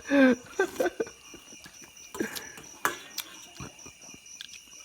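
Crickets chirping steadily in a fast pulsing trill, with scattered clicks and taps and a short voiced sound with a pitch glide at the very start.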